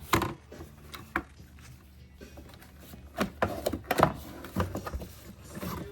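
Scattered clicks and knocks, several short sharp ones with a cluster around three to four seconds in, from parts being handled under the car's hood.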